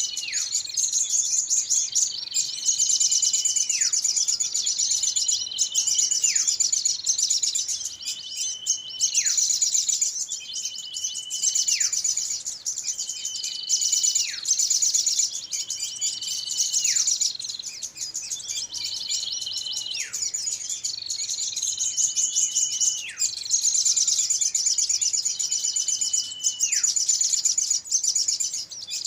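Bird-luring recording of small songbirds calling noisily, looped: dense, rapid high chatter throughout, with a held whistle that drops sharply in pitch about every two and a half seconds.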